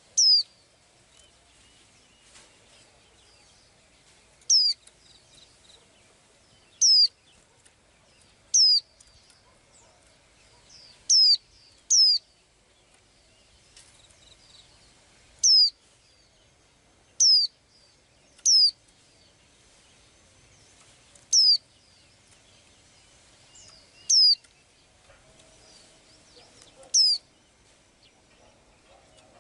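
A small songbird repeating a short, high, clear call about a dozen times, each a single quick note sliding steeply downward, spaced every two to three seconds.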